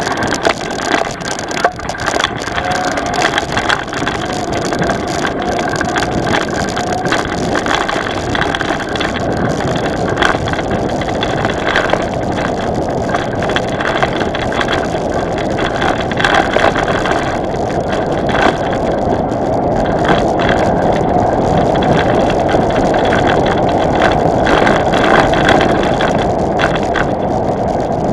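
Vehicle moving over rough ground: a steady rumbling noise with frequent knocks and rattles, growing a little louder toward the end.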